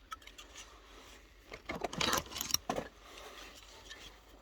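Light metallic clicks and a short scraping, rattling patch about two seconds in, from a screwdriver being handled and worked against the cells and welded nickel strips of an opened Makita 18 V battery pack.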